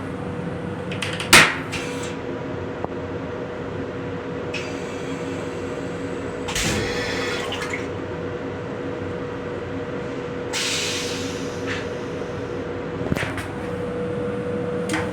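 Restroom of a Metro-North M7 railcar: a steady hum with two steady tones runs throughout, broken by a sharp click about a second in. Several bursts of rushing, hissing water or air follow from the restroom's toilet and sink plumbing, with a few small clicks near the end.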